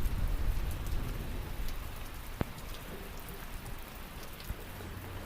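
Steady rainfall, an even hiss of rain with scattered sharper drop impacts. A low rumble is heard at the start and fades out within the first second or so.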